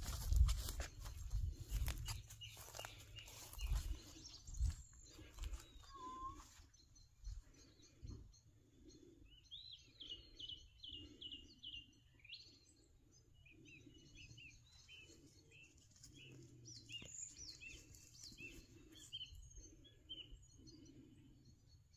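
Small birds chirping, with quick runs of short falling notes from about nine seconds in. Low bumps and rustling come in the first few seconds, and a soft lower sound repeats about once a second beneath the birds.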